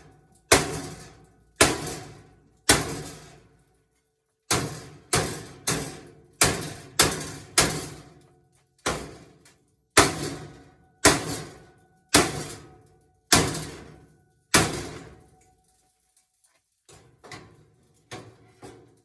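Hammer blows on the metal of a washing machine being stripped for scrap, each strike ringing briefly. About sixteen hard blows come roughly a second apart, with a short pause after the third, then a few lighter taps near the end.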